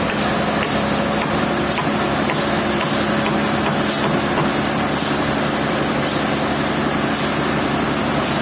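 Sawmill machinery running steadily: a constant motor hum under loud saw and machine noise, with short hissy surges every second or so.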